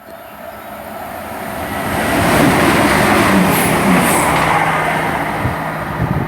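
Chiltern Railways diesel multiple unit passing through the station, its rush of noise and low engine hum building to a peak about halfway and then easing off. There are two brief high squeaks near the middle.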